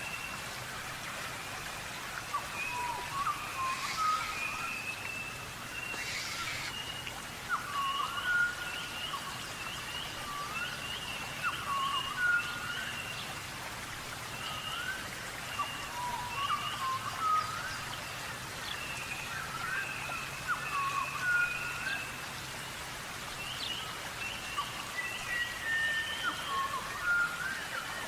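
Birds dust-bathing in sand close to the microphone: a steady patter of flicked sand, with many short chirping calls repeating throughout and two sharp scuffs early on.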